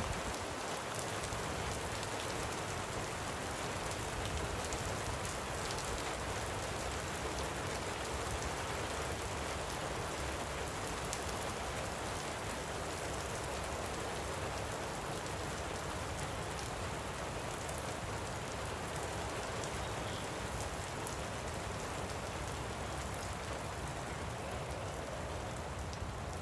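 Light rain falling steadily: an even patter of drops.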